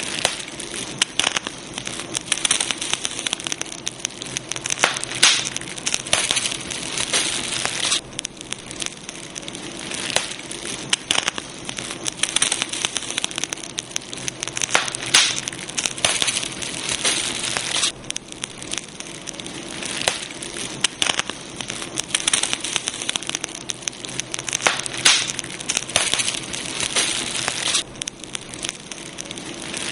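Campfire burning, with a dense run of irregular crackles and pops over a steady hiss. The texture shifts abruptly about every ten seconds.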